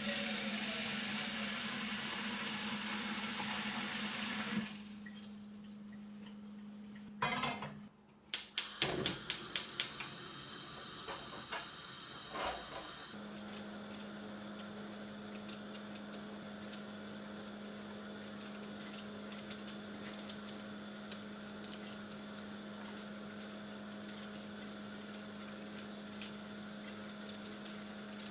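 Kitchen sounds: water running from a tap for about four and a half seconds, then stopping. About eight seconds in comes a quick run of about eight sharp, loud clicks, then a steady low hum with scattered light ticks.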